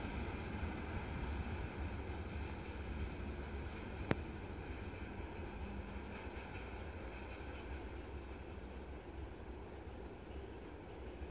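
Freight train of tank wagons rolling away, its wheels rumbling on the rails and slowly fading, with wind on the microphone. A single sharp click about four seconds in.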